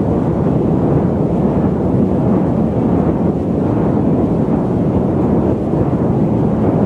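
Loud, steady static noise: a dense, deep hiss-like rumble with most of its weight in the low and middle range and little treble, unchanging throughout.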